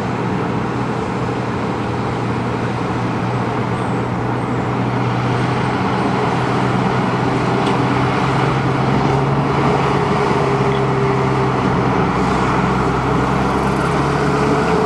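A motor vehicle engine running steadily with a low hum and road traffic noise, growing a little louder toward the end.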